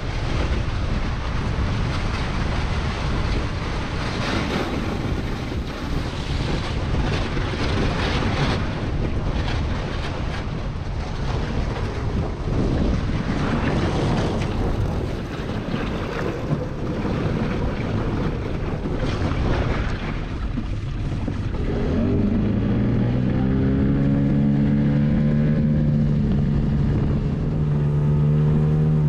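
A small boat's outboard motor running under rough wind noise on the microphone, with scattered knocks and scrapes. About three quarters of the way in, a steady, clearly pitched engine drone comes to the front.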